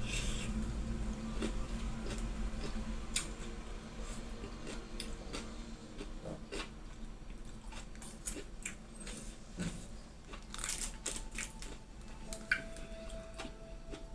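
A person chewing and crunching mouthfuls of gado-gado, vegetables in spicy peanut sauce, with irregular wet mouth clicks and crunches.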